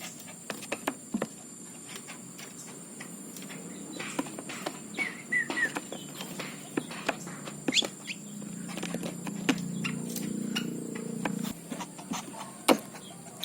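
Baby common flameback woodpeckers (pelatuk bawang) calling while being hand-fed: a few short high chirps about halfway through, then a few seconds of steadier buzzing begging calls. Scattered small clicks run throughout.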